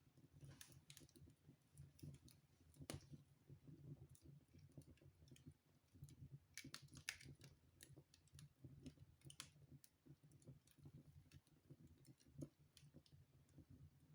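Wood fire crackling in a fireplace: faint, irregular pops and snaps over a low steady rumble, with a sharper snap about three seconds in and a cluster of crackles around seven seconds.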